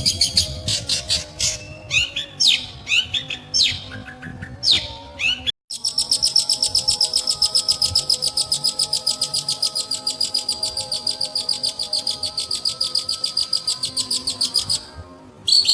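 Long-tailed shrike (pentet) singing: varied sweeping whistled notes, then, after a brief break, a long fast run of rapidly repeated chattering notes that stops near the end.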